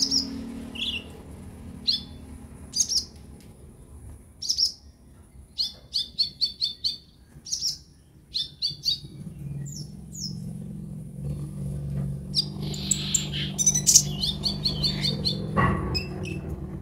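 A kolibri ninja (sunbird) calling: short high chirps about once a second, then quick stuttering runs of rapid notes. A faint low hum runs underneath.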